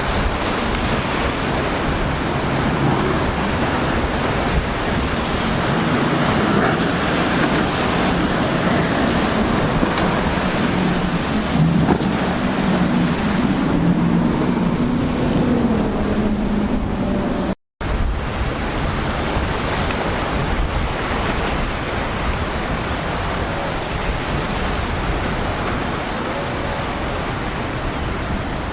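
Waves and surf breaking with wind on the microphone, under the drone of boat engines, which waver in pitch through the first half or so. The sound cuts out completely for a split second about two-thirds of the way through.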